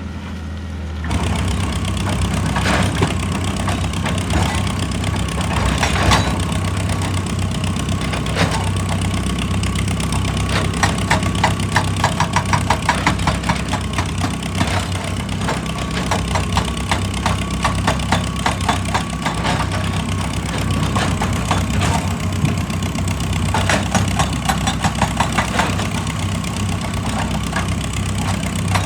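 Excavator's diesel engine running steadily, with stretches of rapid, rhythmic knocking over it.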